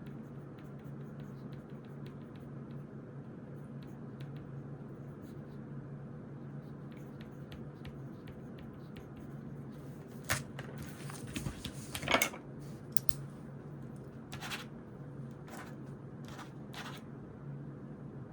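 Desk sounds of studying by hand: faint pen-on-paper scratching and small ticks over a steady low hum, with a cluster of louder clicks and knocks a little past halfway and a few single clicks after.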